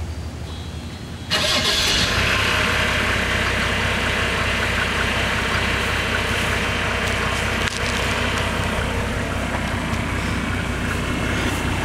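1987 Mercedes-Benz 300D's turbodiesel inline-six starting, jumping suddenly in level about a second in, then running at a steady idle through its stock Mercedes muffler and silencer.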